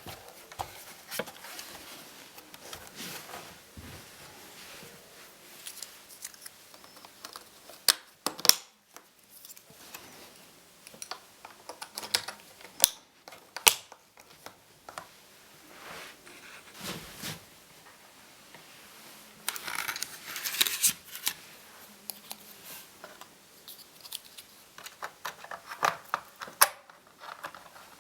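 Laptop parts being handled and worked on at close range: scattered sharp plastic clicks and knocks, a scraping, rustling stretch about twenty seconds in, and a quick run of small clicks near the end.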